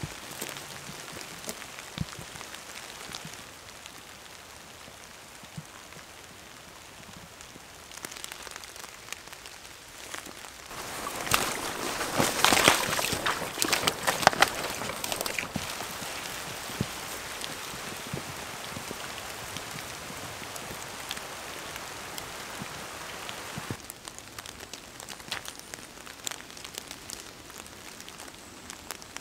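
Steady rain falling in a forest, with scattered close drops. About eleven seconds in, louder splashing and squelching footsteps through waterlogged bog for a few seconds.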